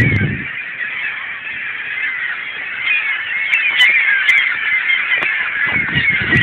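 A large flock of seagulls calling together, many cries overlapping at once.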